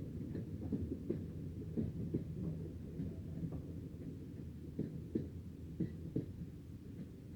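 A train rolling past with a low rumble, its wheels knocking over rail joints in quick pairs; the sound slowly fades as it moves away.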